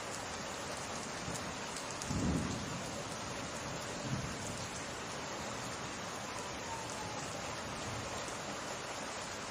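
Steady heavy summer rain pattering. Two brief low rumbles come through, about two seconds in and again about four seconds in.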